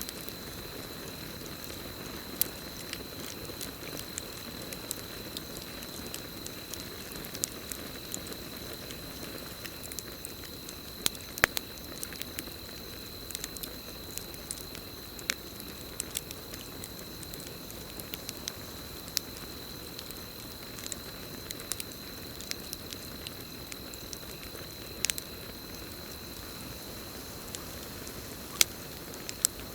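Campfire crackling: a steady low rush of burning wood broken by frequent irregular sharp pops and snaps, a few of them louder, such as one about eleven seconds in and one near the end. A continuous high, even cricket trill runs underneath.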